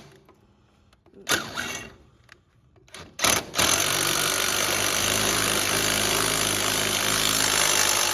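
A handheld power tool run in short bursts, then run steadily for about four and a half seconds until it stops at the end.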